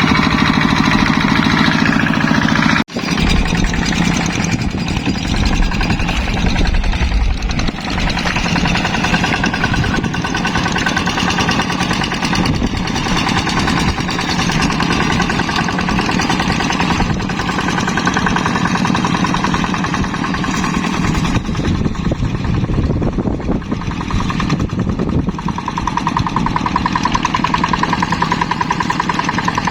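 Yanmar tractor's diesel engine chugging steadily with a rapid knocking beat while plowing a rice paddy, with a brief break about three seconds in.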